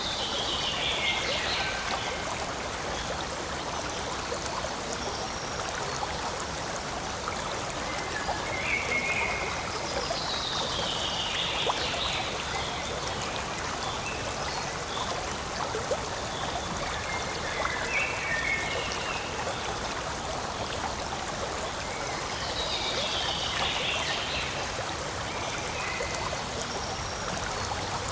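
Forest stream running steadily, a constant rushing and trickling of water. Three short, high, falling calls sound over it, near the start, about ten seconds in and again about twenty-three seconds in.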